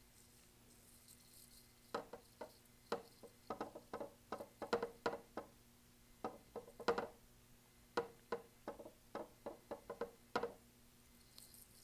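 Paintbrush dabbing acrylic paint onto a stretched canvas: a run of light, irregular taps, a few a second, starting about two seconds in and stopping near the end.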